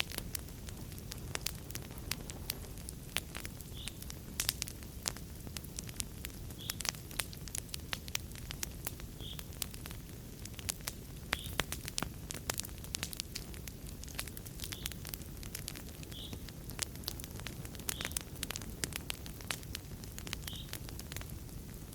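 Wood fire in a fireplace crackling, with frequent sharp pops and snaps over a steady low hiss of burning flames.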